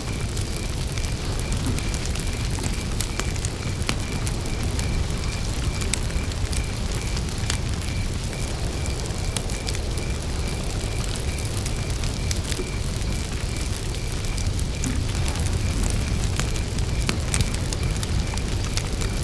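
Wood campfire burning with a steady low rumble and scattered sharp crackles and pops, while a cricket chirps in an even, rapid high-pitched trill throughout.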